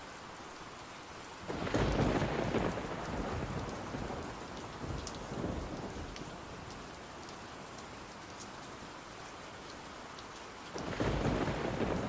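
Steady rain with two rolls of thunder: one breaks about a second and a half in and rumbles away over several seconds, and another begins near the end.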